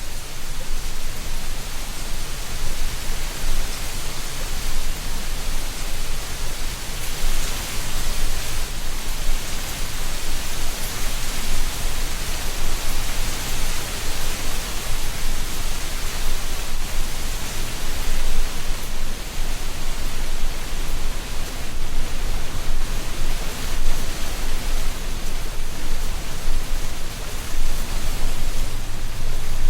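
Wind blowing through a tree canopy, rustling dry autumn leaves: a steady hiss with a low rumble underneath.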